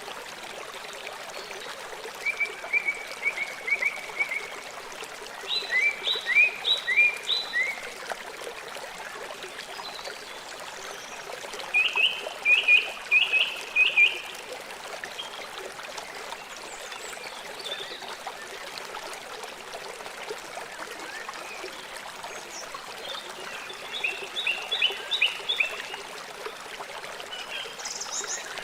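A river flowing steadily with a constant rushing of water. Four times, a short run of four to six quick high chirps breaks through the water sound, about 2, 6, 12 and 24 seconds in.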